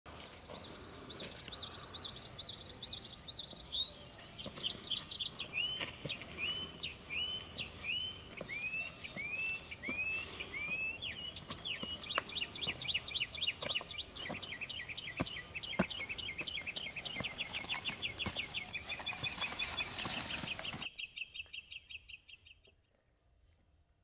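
A bird calling a long series of short, repeated notes, about two a second, that quicken into a fast trill about halfway through and stop near the end. Scattered light clicks and a steady background hiss run behind it, the hiss cutting out suddenly near the end.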